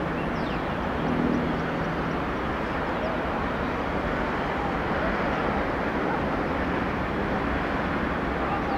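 Steady trackside rumble and hiss as a Metrorail electric commuter train approaches slowly, with faint distant voices.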